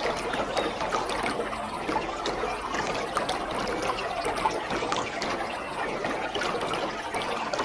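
Waterfall: a steady rush of falling water with constant splashing and trickling.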